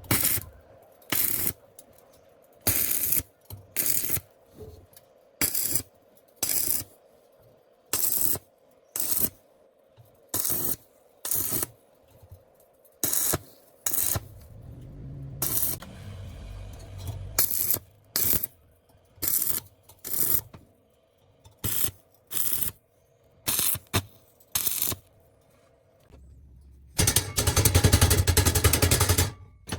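A series of short scraping strokes of a tool on a workpiece, about one a second, over a faint steady hum, then a longer, louder burst of scraping noise near the end.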